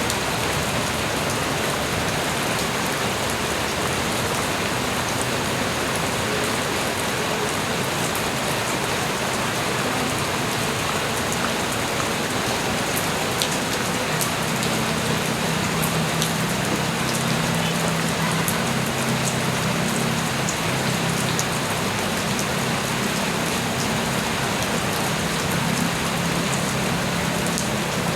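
Light rain falling steadily: an even hiss with scattered drop ticks. About halfway through, a low rumble joins underneath and holds.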